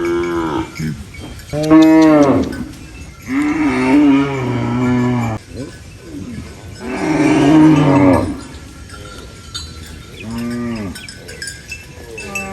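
Cows mooing: four long moos a few seconds apart, plus the tail end of another at the very start. The second moo is held for about two seconds.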